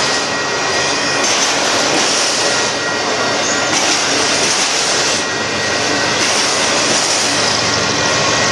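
Union Pacific mixed freight train's autorack cars rolling past at close range: a steady, loud noise of steel wheels running on the rails.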